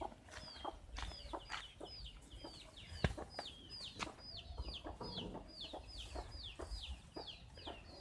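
A bird chirping, faint: short high notes that each fall in pitch, repeated about three times a second without a break. A few soft clicks and knocks sound under it, the sharpest about three seconds in.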